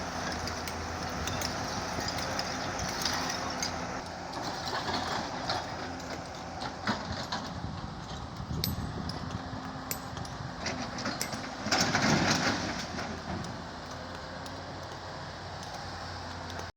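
Heavy excavator's diesel engine running steadily while it loads broken rock, with scattered knocks and clatter throughout and a louder burst of rumbling noise about twelve seconds in.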